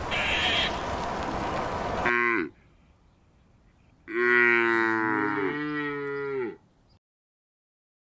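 A cow mooing: the falling tail of a moo about two seconds in, then one long moo of about two and a half seconds that drops in pitch at its end. Before it there is a steady outdoor hiss.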